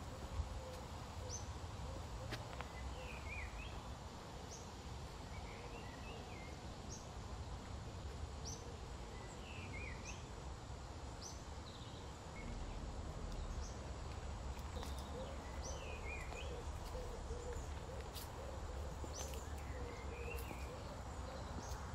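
Small wild birds calling over steady low outdoor background noise. The calls are short high chirps repeated every second or two, mixed with lower dipping notes.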